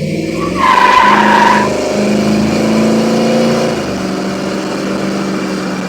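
Carbureted engine of a 1993 Ford Ranger pulling under way, climbing in pitch and then holding steady. A brief high squeal comes about a second in, at the loudest point.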